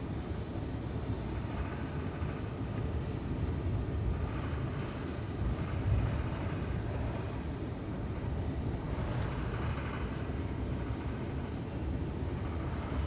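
Steady low rumble of cabin noise inside an Airbus A350-900 with Rolls-Royce Trent XWB engines, with a slightly louder bump about six seconds in.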